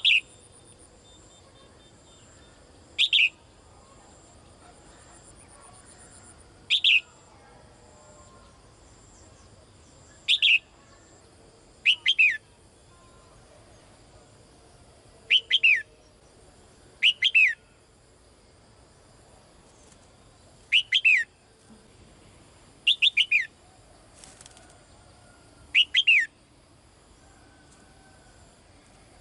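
Caged female songbird calling for a male: about ten short calls, each a quick falling sweep, some given as double or triple notes, repeated every two to four seconds.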